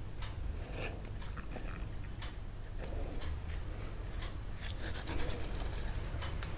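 Scattered soft clicks and scratches over a low steady hum.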